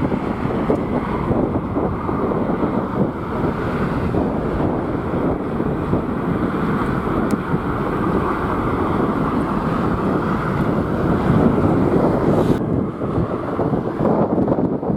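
Strong wind buffeting the microphone: a steady, dense rushing noise, with the higher hiss falling away near the end.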